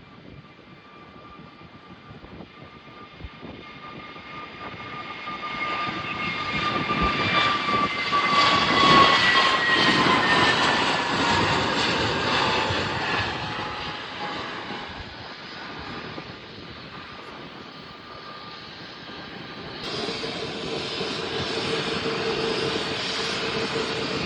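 Aeroplane passing by: engine noise swells to its loudest about nine seconds in, with a whining tone that slides down in pitch as it goes past, then fades. About twenty seconds in, a different steady engine noise with a constant hum cuts in abruptly.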